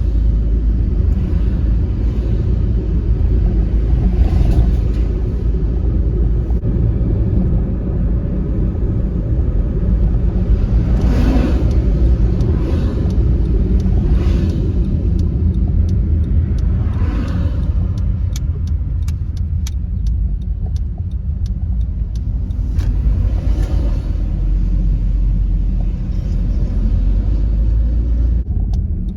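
Honda Freed driving along a road: steady low engine and road rumble, with brief swells of sound now and then as traffic goes by.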